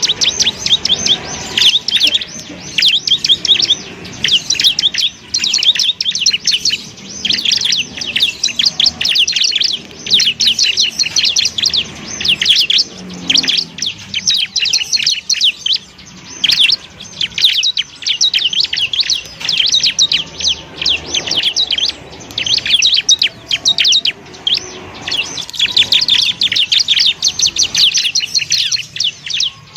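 Bar-winged prinia (ciblek) singing: fast, high, chattering trills in long runs of rapid notes with short breaks between phrases.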